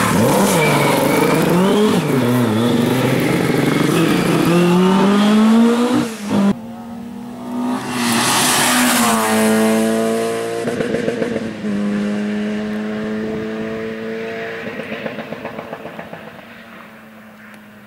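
Rally car engines at full throttle, revving up and down through gear changes. After an abrupt cut, another car's engine climbs in pitch as it passes, then holds a steady note that fades away.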